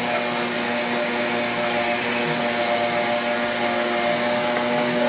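Vacuum cleaner running steadily, its motor giving an even hum with a whine over the rush of air.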